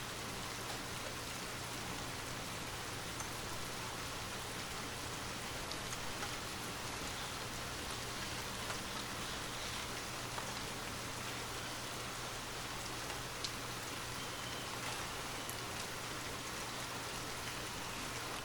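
Steady rain falling: an even hiss with scattered, sharper drop ticks.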